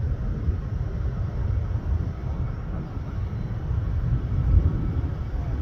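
Low, steady rumble of jet airliner engines at the airport, with the sound spread low and no clear whine.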